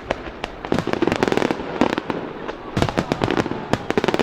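Fireworks display going off: rapid clusters of sharp bangs and crackles in quick succession, several volleys within a few seconds.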